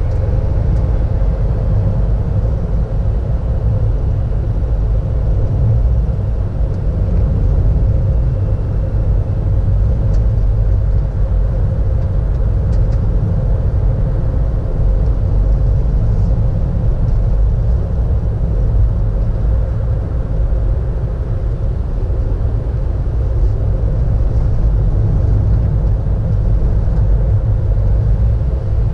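A car driving, heard from inside the cabin: steady low engine and road rumble.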